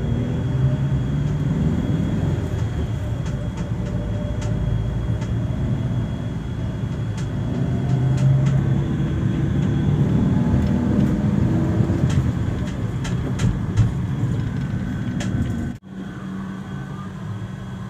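Vehicle engine running amid road noise, its pitch drifting up and down with a few clicks. The sound breaks off abruptly near the end and gives way to a steadier, even hum.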